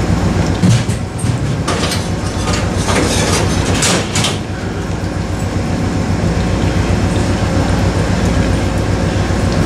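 Amtrak passenger train standing at the platform, its diesel power running with a steady low drone. A spell of hissing noise rises over it from about one and a half to four and a half seconds in.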